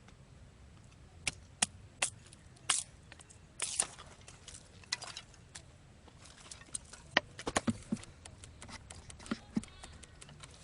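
Batoning firewood: a wooden baton knocking a knife through a small piece of wood, a dozen or so sharp wooden knocks at irregular intervals, several in quick succession near the end.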